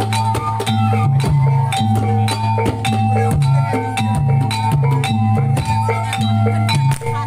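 Javanese reog accompaniment music: drums and struck gong-chime percussion playing a fast, steady rhythm of about three to four strikes a second over sustained ringing metal tones.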